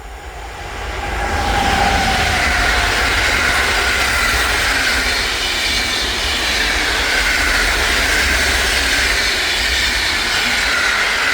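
A train passing close by: the sound swells over the first two seconds, then holds loud and steady as a rush of wheels running on the rails, with a faint high ringing tone on top.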